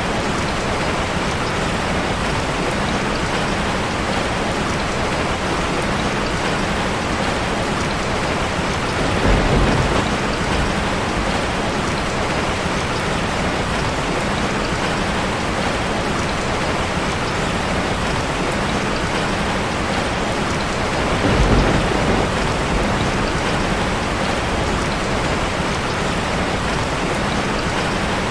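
Steady, dense rain drumming on a metal roof. About nine seconds in and again about twenty-one seconds in, there is a brief low rumble.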